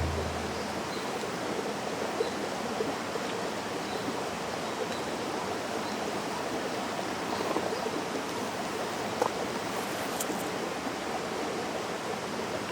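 Mountain stream running: a steady rush of flowing water, with a few faint clicks.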